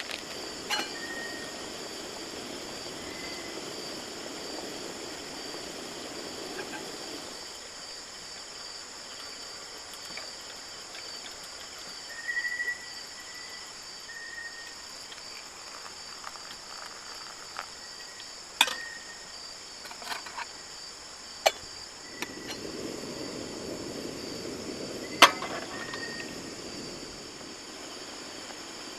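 Steady, high-pitched chorus of insects, with a few short chirps and several sharp clicks or knocks in the second half.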